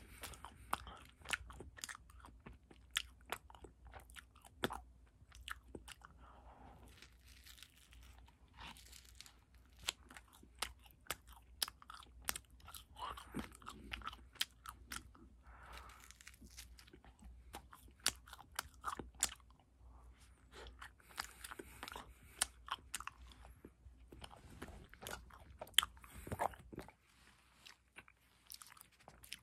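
Close-up chewing and wet lip-smacking while eating a vanilla ice cream cone, with many sharp, irregular mouth clicks and the odd crunch of the wafer cone. The clicks thin out briefly near the end.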